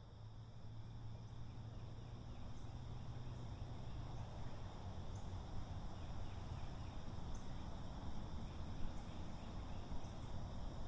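Daybreak field-recording ambience of insects and tree frogs calling, with a few faint high chirps, over a steady low hum. It fades in at the start.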